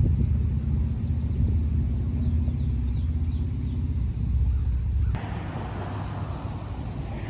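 Pond-side outdoor noise made up mostly of a steady low rumble, with faint goose calls in the first few seconds. About five seconds in it cuts abruptly to a lighter, hissier outdoor noise.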